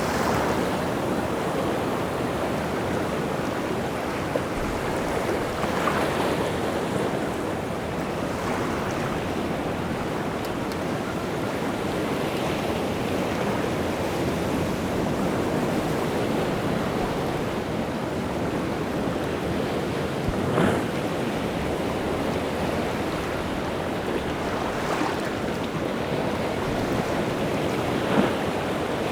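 Rough, wind-driven sea surf: waves breaking and washing on the shore in a steady dense rush, with a few sharper splashes standing out, one about two-thirds of the way in and one near the end.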